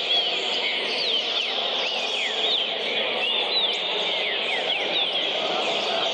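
Green-winged saltator (trinca-ferro) singing a fast run of short whistled notes that sweep up and down, several a second, over a steady low background noise.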